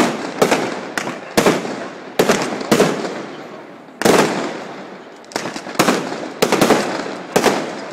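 Aerial firework shells bursting overhead: about a dozen sharp bangs in quick succession, each trailing off in a rolling echo, with a short lull shortly before the middle.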